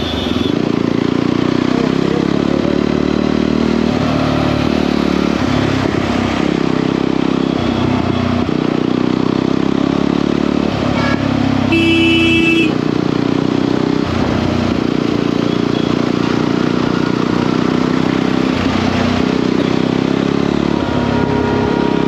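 Jawa 42 motorcycle's single-cylinder engine running at riding speed, with a steady rushing noise over it. A horn honks once, for under a second, about twelve seconds in.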